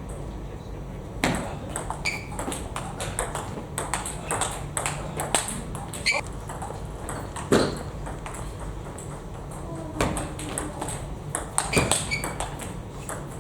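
Table tennis ball clicking back and forth off bats and the table in quick, irregular hits during play. The sharpest hits come about a second in, midway, and in a cluster near the end.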